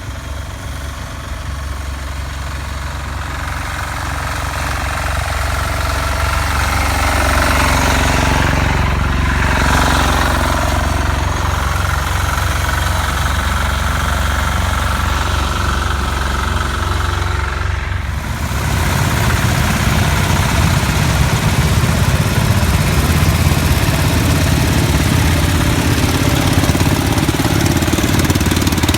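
Small diesel engine of a Sears Suburban garden tractor running with a knocking beat, growing louder over the first several seconds as it comes in. About two-thirds of the way through it turns deeper and louder.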